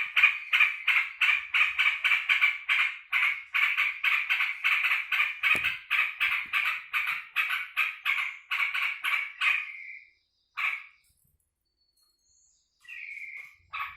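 Sooty-headed bulbul calling in a fast, even run of repeated short notes, about four a second, which stops about ten seconds in; a couple of short single calls follow near the end.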